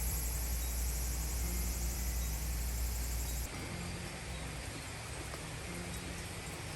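Steady outdoor background noise, a low rumble under a high hiss, which changes abruptly about three and a half seconds in, as at an edit.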